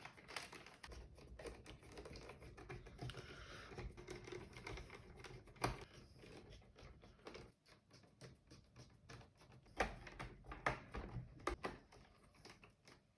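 Light, irregular clicks and taps of plastic casing parts and screws being handled and fitted on a Eufy RoboVac robot vacuum during reassembly. There is a sharper click about halfway through and a quick run of clicks toward the end.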